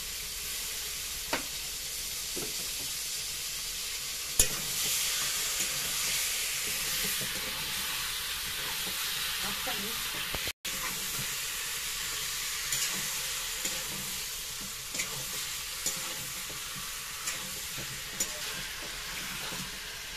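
Raw chicken pieces sizzling in hot oil and fried onions in an aluminium kadai as they are stirred, with a metal spatula scraping and clicking against the pan; one sharp knock about four seconds in.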